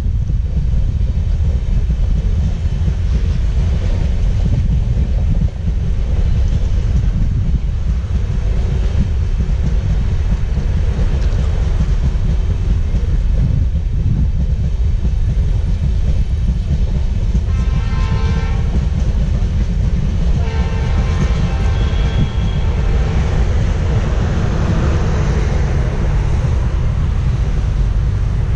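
Alco diesel locomotive hauling a train of LHB coaches running past, with a steady heavy rumble. Its horn sounds twice, a short blast about two-thirds of the way in and a longer one a couple of seconds later.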